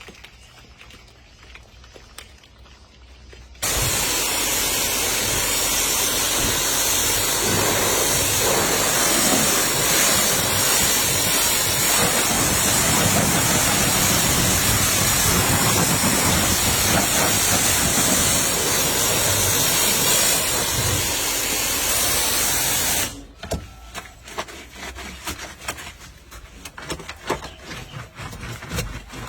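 High-pressure water spray hitting a car's bodywork: a steady loud hiss that starts suddenly a few seconds in and cuts off sharply near the end, with scattered drips and ticks before and after.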